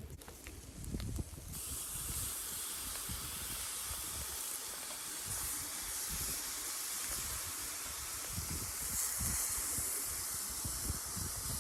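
Yakitori skewers sizzling over glowing binchotan charcoal in a small tabletop grill. The steady hiss starts abruptly about a second and a half in.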